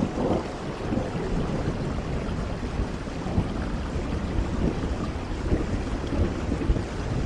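Steady rain with a low rumble underneath.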